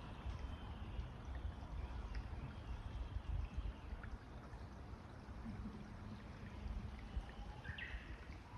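Steady hiss of water, with a few bird calls over it, the clearest a short call near the end.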